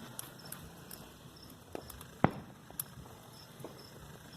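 Wood bonfire crackling: scattered sharp pops and snaps at irregular intervals, one louder about two seconds in.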